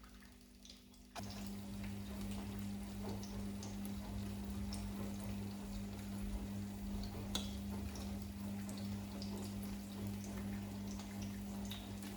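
A steady low hum that cuts back in about a second in, with scattered light clicks and taps over it.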